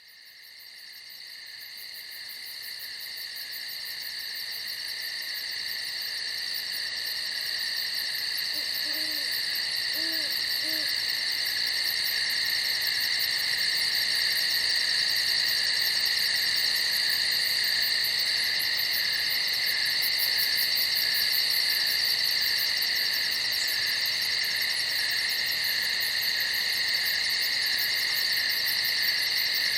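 Crickets chirping in a steady, dense chorus, fading in from silence over roughly the first twelve seconds. A few faint, short, low calls sound briefly about nine to eleven seconds in.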